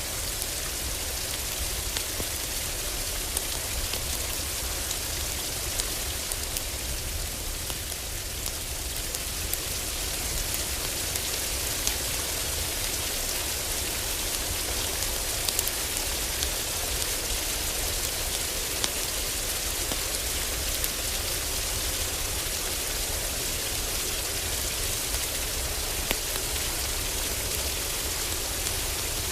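Heavy rain falling steadily on a roof: a dense, even hiss with a steady low rumble underneath. Scattered sharp little pops run through it, the crackle of a wood fire in a fireplace.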